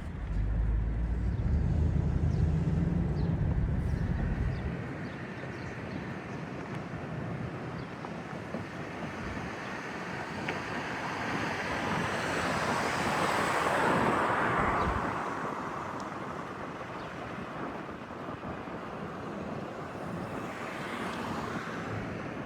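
Outdoor ambience with low wind buffeting on the microphone for the first four seconds or so, then a passing vehicle that swells to a peak near the middle and fades away.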